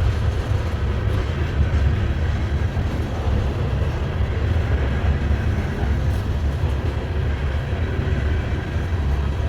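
Norfolk Southern freight train's cars rolling past slowly, a steady low rumble of wheels on rail.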